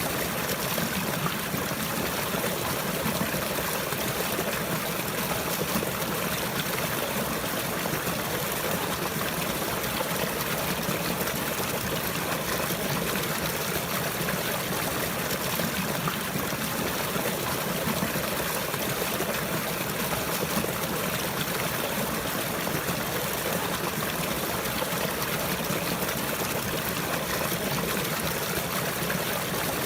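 Running water trickling steadily, with no change in level.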